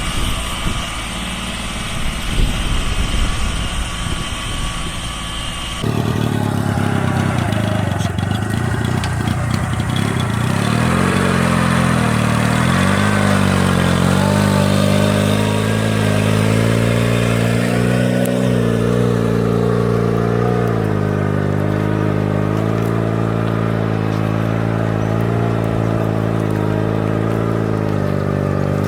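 Mini tractor engine running, its pitch rising and falling as the load changes. The sound changes abruptly about six seconds in, from a rougher, noisier rumble to a clearer, steadier engine note.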